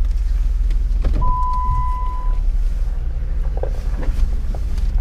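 Off-road vehicle's engine running low and steady while waiting at an obstacle, with a single steady electronic beep about a second in that lasts about a second.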